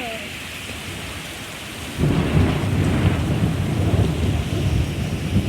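Heavy rain hissing steadily. About two seconds in, a loud, rough low rumble of thunder sets in and keeps going.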